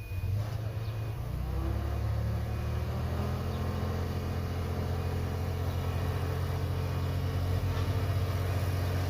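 Heavy diesel engine of earthmoving machinery running, coming up sharply at the start and growing louder over the first couple of seconds before holding a steady drone.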